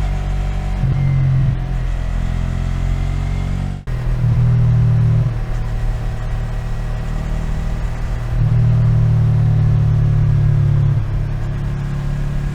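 Yamaha MT-03's 321 cc parallel-twin engine running at low revs, with the throttle opened three times: briefly about a second in, again just after four seconds, and for a longer stretch past the middle. The sound drops out for an instant just before the four-second mark.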